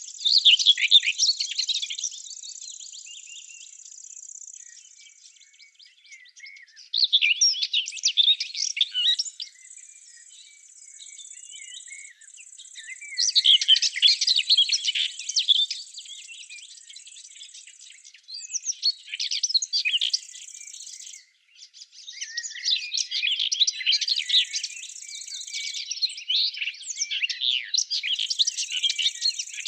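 A songbird singing in rapid twittering phrases, one every few seconds and almost continuous near the end, over a steady high-pitched insect trill that stops and starts.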